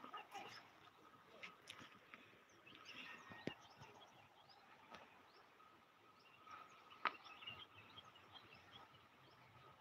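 Very faint outdoor ambience with scattered small bird chirps, and two sharp clicks, about three and a half seconds in and again about seven seconds in.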